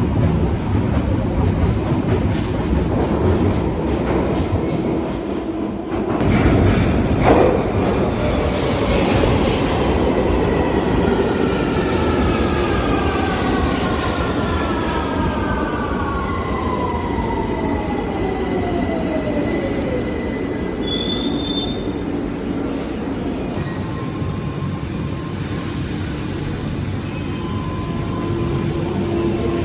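London Underground train running on the rails with a steady rumble. From about ten seconds in, a motor whine falls steadily in pitch as the train slows, followed by a few brief high wheel squeals.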